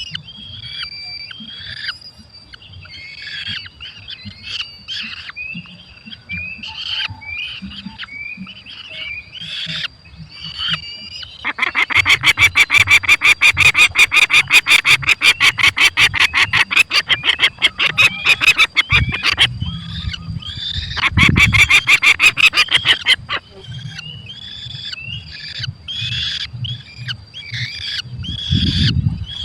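Falcons calling at the nest: short repeated calls, then from about a third of the way in a loud, rapid, harsh chatter of many notes a second that runs for roughly ten seconds before the short calls return. A faint steady high whine sits underneath.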